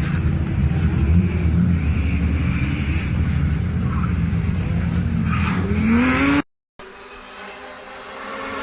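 Rally car engine running loud, then revving up with a rising pitch just before it cuts off abruptly. After a brief silence, a quieter engine with a steady pitch comes in and grows louder.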